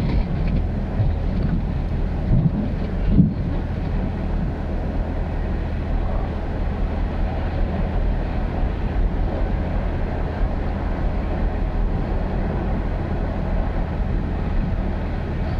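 Ford F-350 Super Duty pickup's engine running with a steady low drone, along with road and wind noise. There is a soft thump about three seconds in.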